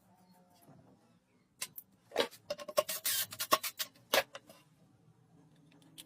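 Hard objects being handled and knocked together: a quick run of sharp clicks and knocks from about a second and a half to four seconds in, with a brief scraping rub in the middle.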